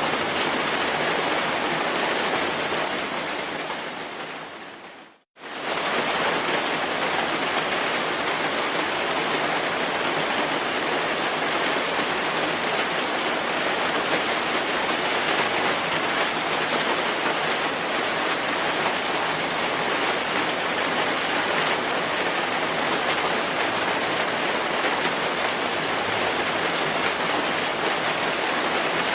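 Steady heavy rainfall hissing. About four seconds in it fades away to near silence, then cuts back in suddenly at full level a moment later.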